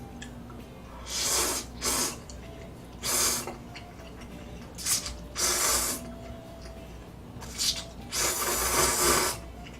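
A person eating makes about seven short, breathy rushes of air at the mouth or nose, each lasting under a second, with the longest near the end.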